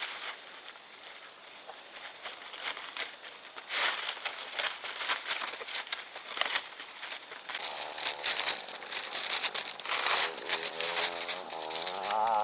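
Dense, irregular crackling and rustling. From about eight seconds in, a buzzing with a wavering pitch joins it, like an insect flying close by.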